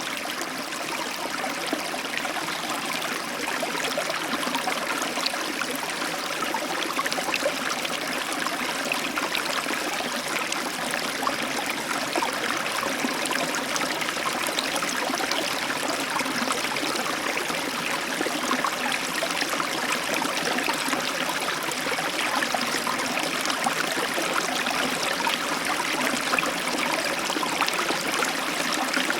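Heavy tropical downpour falling steadily, a dense patter of raindrops heard through an open balcony door.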